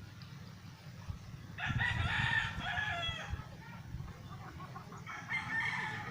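A bird calling loudly twice: a long call about one and a half seconds in, then a shorter one near the end, over a steady low hum.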